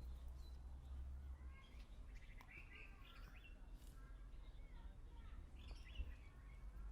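Faint birds chirping in short bursts of calls, over a steady low rumble of ambient background noise.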